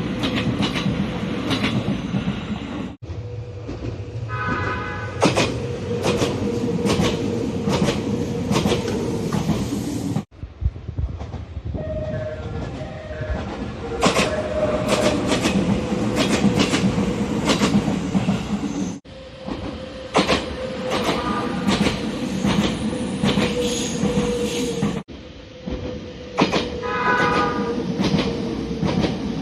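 Nagano Electric Railway express trains running in several cut-together recordings: wheels clicking over rail joints and a steady hum from the train. Short horn calls sound in each recording, some as a run of separate notes like a musical horn.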